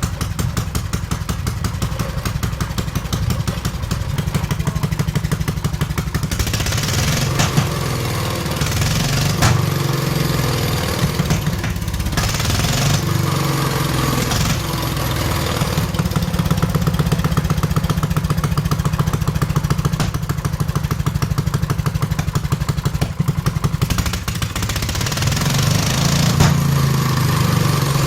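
Restored Condor Guidetti A320 engine running on its first start after restoration, with a rapid even firing beat that picks up and gets louder a few times.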